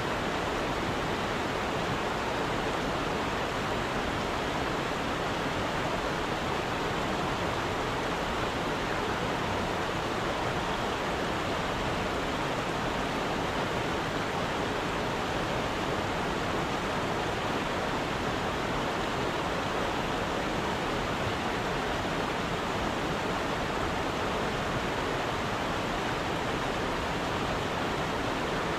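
Steady rush of running stream water, an even, unbroken noise.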